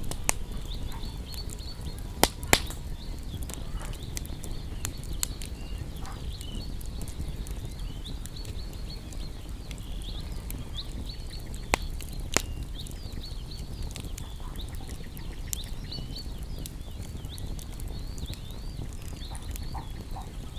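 Wood bonfire burning with a steady low rumble and sharp crackling pops: two loud pops about two seconds in and two more near the middle. Small birds chirp and twitter continuously over it.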